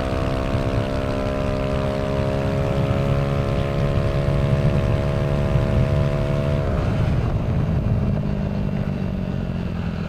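Yamaha Aerox 155's single-cylinder engine through a Villan aftermarket exhaust, held at steady revs that creep slightly higher. About seven seconds in, the throttle closes and the revs drop away.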